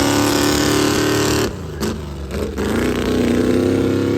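Truck engine running hard at high revs. It drops off briefly about a second and a half in, then climbs back up and holds high again.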